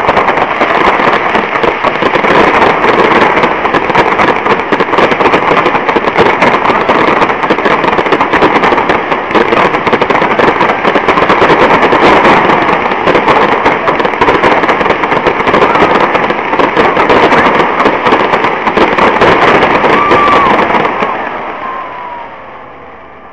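Fireworks display: a dense, continuous barrage of crackling bangs for about twenty seconds, with a brief whistle near the end, then dying away.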